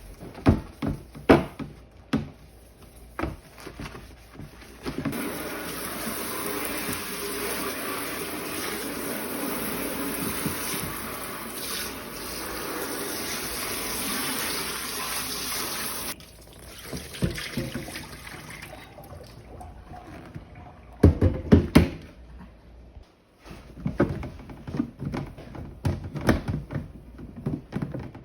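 Kitchen tap running steadily for about eleven seconds, then shut off abruptly, while fridge parts are washed. Knocks and clatter of things being handled come before and after it, the loudest a pair of sharp knocks about two thirds of the way through.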